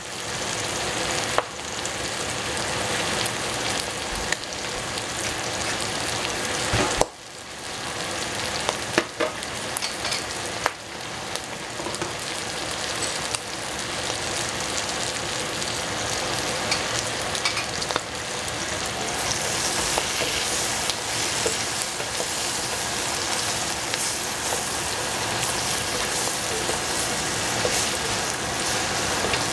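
Egg, wood-ear fungus and cabbage frying in hot oil in a pan: a steady sizzle, with scattered clacks of a spatula stirring against the pan.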